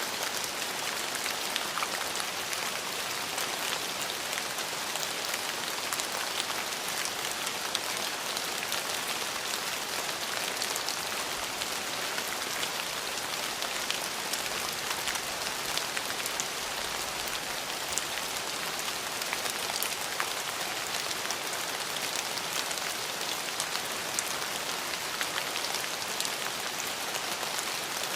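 Steady rain falling on hard surfaces, an even hiss dotted with many small, sharp drop ticks.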